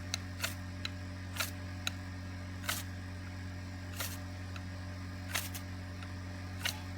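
A ferrocerium rod struck again and again with a scraper, each stroke a short, sharp rasp throwing sparks onto newspaper kindling, about one stroke every second or so. The newspaper will not catch. A steady low hum runs underneath.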